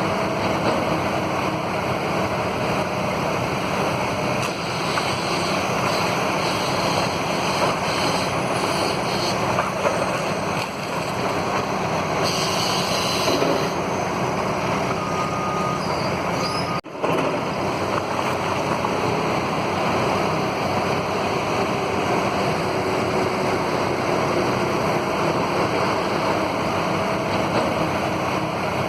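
Heavy demolition machinery running steadily: a constant engine noise, with a momentary dropout a little past the middle.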